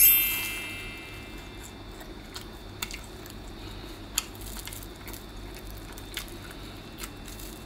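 A person biting into and chewing a flaky chocolate-topped croissant with the mouth closed, with a few faint crackles of pastry. It opens with a short high ringing tone that fades over about a second.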